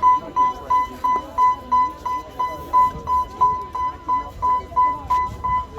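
Railway level-crossing warning alarm beeping, about three short high beeps a second, sounding while the crossing is closed for a passing train.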